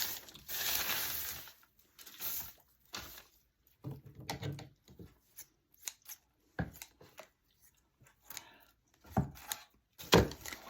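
Dry craft hay rustling as it is handled and pressed into place, with scattered short clicks and scrapes of small objects being moved.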